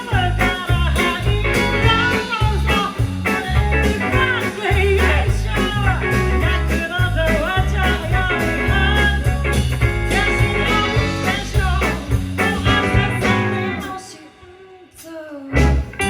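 Live band playing a song: a singer over guitar and bass with a steady beat. Near the end the music drops out for about a second and a half, then comes back in with a sudden loud hit.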